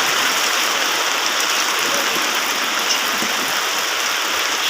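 Torrential rain pouring down in a loud, steady, dense hiss.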